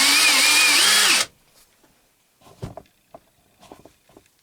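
Handheld electric drill with a 1/8 inch bit running with a wavering whine, then stopping abruptly about a second in. Faint handling knocks follow.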